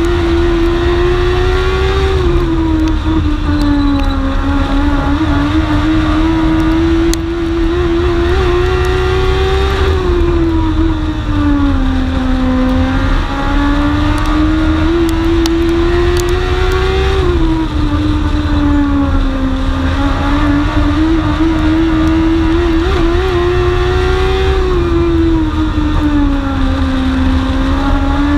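Dwarf race car's engine heard onboard while racing on the speedway oval. Its pitch climbs for several seconds and then drops sharply, again and again about every seven and a half seconds: accelerating down each straight and lifting for each turn, lap after lap.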